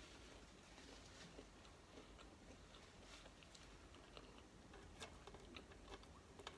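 Faint eating sounds close to the microphone: soft chewing with scattered small mouth clicks and crunches, a few sharper ones near the end.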